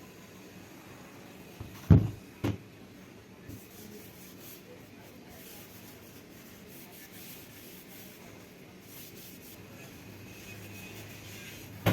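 Two loud, sharp knocks about half a second apart, a fainter tick a second later, and another sharp knock near the end, over a low steady hum.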